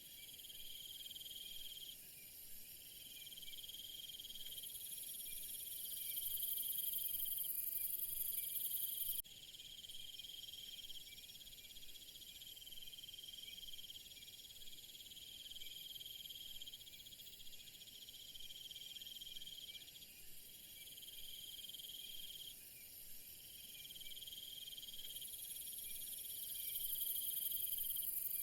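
Chorus of crickets and other insects trilling continuously in high, steady tones. A shrill, very high buzz swells in about five seconds in, cuts off abruptly about nine seconds in, and rises again near the end.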